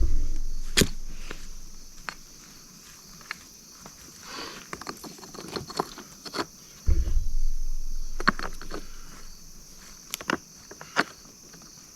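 Stones being set in a dry-stacked rock wall: two heavy low thuds and several sharp clacks of rock on rock, over a steady chorus of insects.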